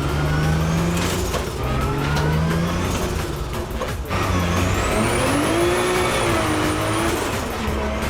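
BMW E46 M3 with a swapped-in Toyota 2JZ inline-six engine accelerating, its pitch rising in two pulls through the gears in the first three seconds. After that comes a steadier, wavering engine sound with a high whine over it.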